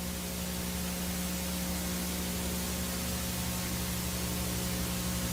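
Steady hiss with a steady low hum, the background noise of an analog TV recording with no programme sound.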